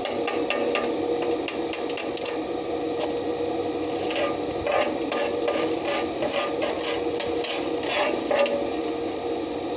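Hand tools working on a steel backhoe arm: irregular sharp taps and scraping, in clusters about four seconds in and again from six to eight seconds, over a steady hum with one constant tone.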